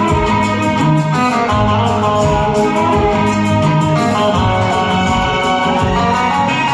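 Instrumental break of a karaoke backing track: sustained melody notes over a steady beat, with no singing.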